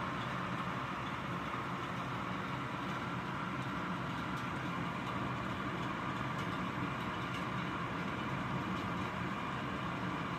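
Steady rain, heard from behind rain-spotted glass, with faint scattered drop ticks and a steady low hum underneath.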